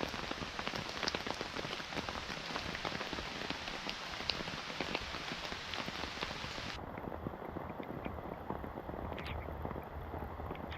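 Steady rain with many individual drops pattering. About seven seconds in, the sound abruptly turns duller as the high hiss drops out.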